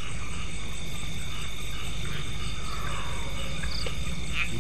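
Night chorus of insects such as crickets: a steady high-pitched drone with evenly repeating chirps above it, over a steady low rumble.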